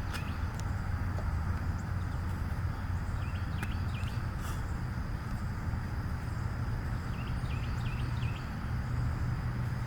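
Steady low outdoor background rumble, with a few faint short bird chirps about four seconds in and again near eight seconds.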